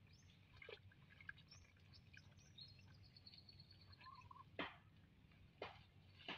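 Near silence with faint bird chirps and a thin, held whistled call around the middle. Three short, soft noises come in the second half.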